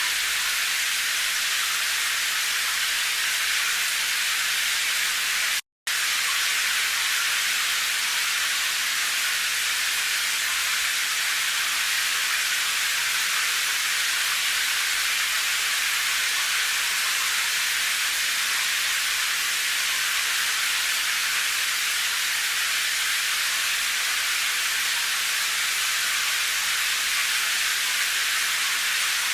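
Steady rain, heard as an even, bright hiss with little bass; it drops out completely for a split second about six seconds in.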